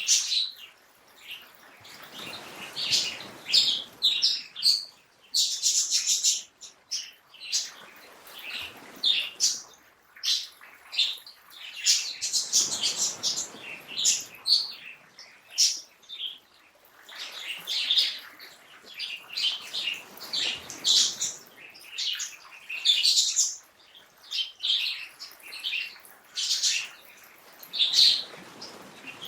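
Several birds chirping, with many short, high calls in quick succession over a soft rushing noise that swells and fades every few seconds.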